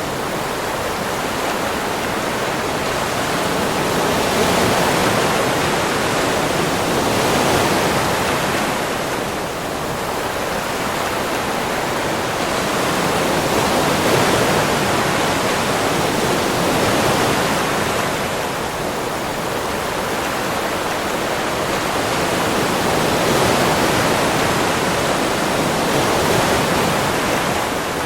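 Sea waves washing on a beach: a steady rush of surf that swells and eases every few seconds.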